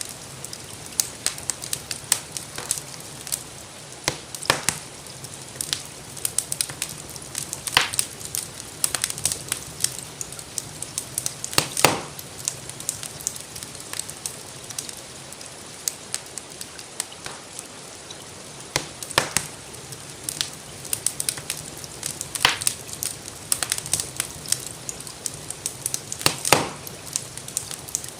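Wood fire crackling in a fireplace: frequent small crackles with a louder sharp pop every few seconds, over a steady hiss of gentle rain.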